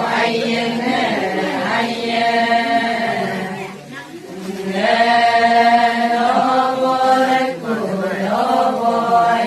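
Voices chanting an Adi ponung song in long, held phrases, with a short break about four seconds in.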